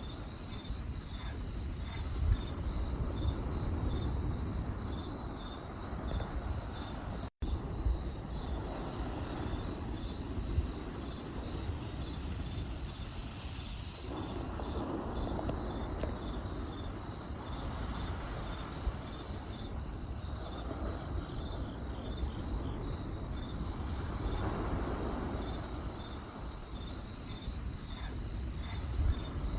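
Crickets chirping in a steady, even pulsing trill over the low rush of a campfire, with a few faint crackling pops. The sound cuts out for a split second about seven seconds in.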